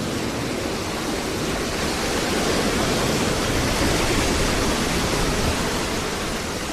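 Ocean waves breaking and washing up the beach: a steady rush of surf that swells slightly about halfway through and eases near the end.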